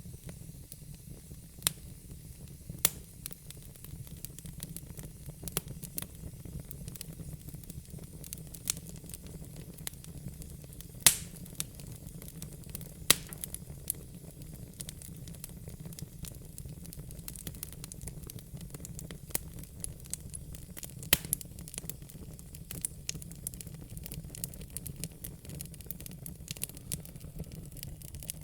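Fire crackling: irregular sharp pops and snaps, a few much louder than the rest, over a steady low rumble.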